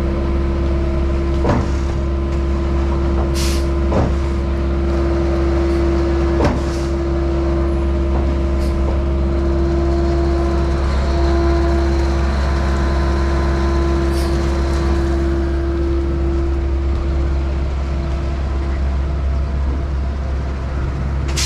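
Skid-steer-powered concrete pump running: a steady engine drone with a constant hum, and a sharp knock about every two and a half seconds during the first several seconds.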